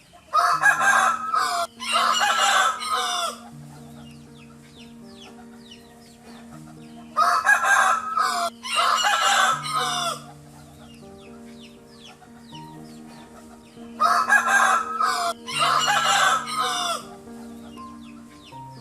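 Rooster crowing three times, several seconds apart, each crow about three seconds long with a short break partway through.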